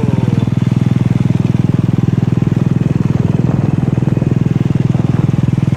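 Motorcycle engine running steadily at an even speed, a fast regular pulsing without change in pitch.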